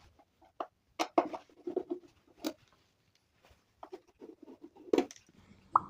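Screws being undone with a screwdriver from a portable speaker amplifier's top panel: scattered clicks and knocks of the tool and metal parts, sharpest about a second in and near the end.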